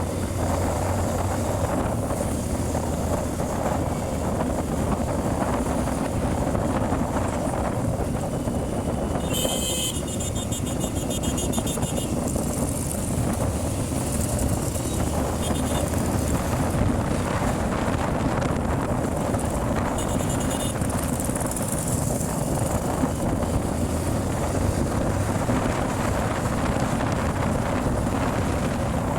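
Hero Xtreme 125R's single-cylinder engine running steadily while riding, with wind rushing over the microphone. A few short high-pitched beeps sound about ten seconds in, again near sixteen seconds and around twenty seconds.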